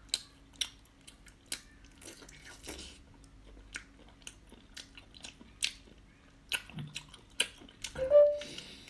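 Close-miked wet mouth sounds of a person biting into and chewing a whole cooked octopus: irregular sharp smacks and clicks, with a brief louder sound about eight seconds in as she bites into the head.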